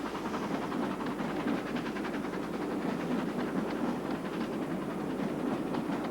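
Steam train running, with a steady rumble and hiss and many quick, rapid clicks.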